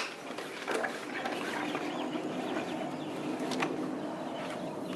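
Faint bird chirps over a steady background hiss, with a couple of faint clicks.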